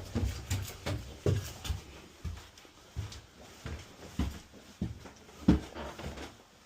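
Footsteps: a run of uneven thumps, about two a second, with a few short clicks, the loudest about five and a half seconds in.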